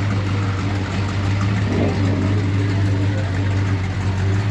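Car engine idling steadily, an even low hum that holds the same pitch throughout.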